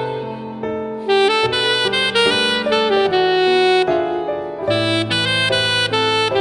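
Saxophone playing a melody in long held notes over a recorded backing track, swelling into a new phrase about a second in and again near the end.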